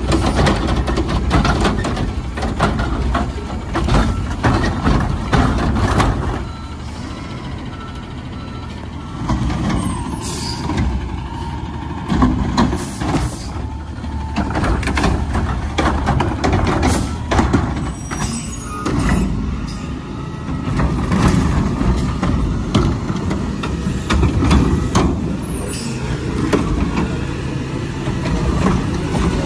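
Garbage truck at work: the diesel engine runs throughout, with air-brake hisses and repeated knocks and bangs. Reversing beeps sound near the start.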